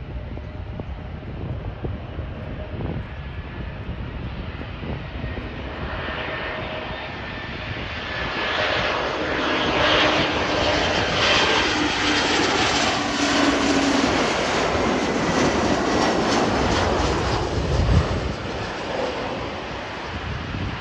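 Embraer E190 jet airliner's twin turbofan engines growing louder as it comes in to land and passes, their whine sliding down in pitch as it goes by, then fading. Wind rumbles on the microphone beforehand, and a single low thump sounds near the end.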